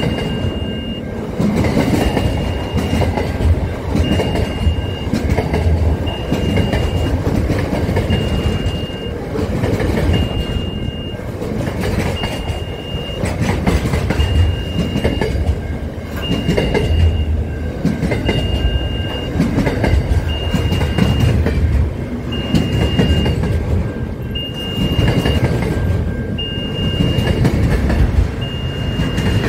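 Double-stacked container freight train passing close by, its wagons rumbling and clattering over the rails. Over it, a level-crossing warning sounds a steady high beep about every two seconds.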